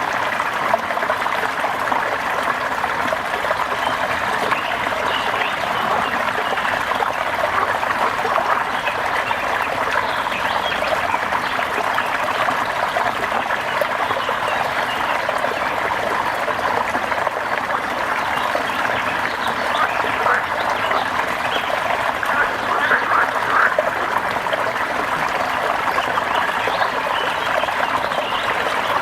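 Steady rain ambience with a dense chorus of animal calls over it, busier in the last third.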